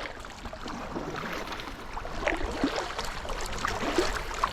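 Water splashing and dripping around a kayak moving down a river: short, irregular splashes over a steady wash of water.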